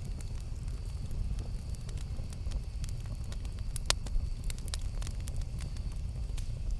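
Campfire crackling: wood snapping and popping in irregular clicks over a steady low rumble, with one louder pop about four seconds in.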